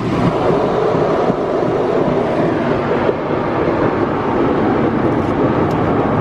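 Car wash tunnel brushes and water spray working over a car, heard from inside the cabin: a loud, steady rushing and churning that steps up at the start and holds.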